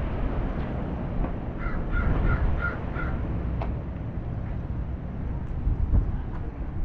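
A bird calling: a quick run of about five short, harsh calls, evenly spaced, over a steady low background rumble.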